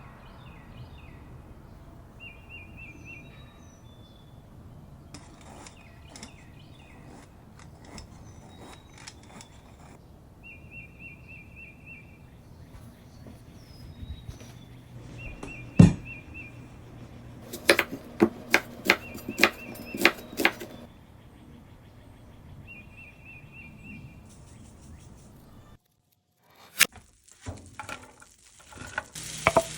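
Outdoor ambience with a bird repeating a short trilled call every several seconds. Over it come scattered clicks and knocks of utensils being handled, with a louder run of about eight sharp knocks a little past halfway.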